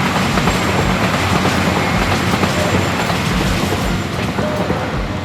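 A train running: loud rumble and rolling noise of the carriage, with dull thumps about once a second as the wheels cross rail joints.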